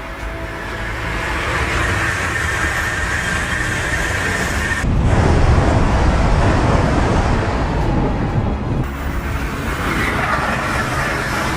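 Steady rushing noise of a train running at speed. The sound changes abruptly twice, getting louder and deeper about five seconds in, then shifting again near nine seconds.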